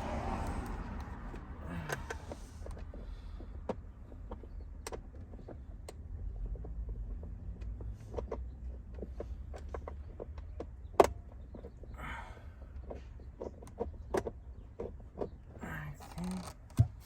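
Scattered clicks and knocks of a tool and metal parts as a seatbelt anchor bolt is fitted in a car's interior, with one sharp knock about eleven seconds in and another near the end. Brief rustles come and go over a low steady rumble.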